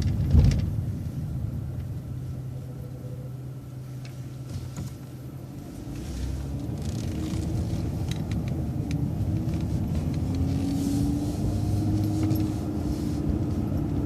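City bus engine running low as the bus slows and waits at a stop sign, then pulling away, the engine and drivetrain whine rising as it accelerates from about six seconds in. Light clicks and rattles are heard throughout.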